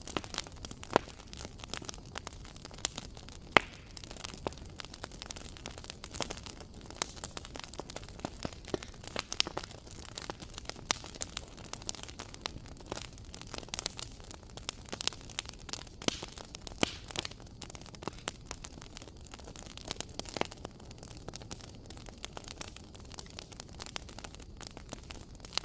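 Wood fire crackling: irregular sharp pops and snaps over a low steady hiss and rumble of burning, with a few louder pops scattered through.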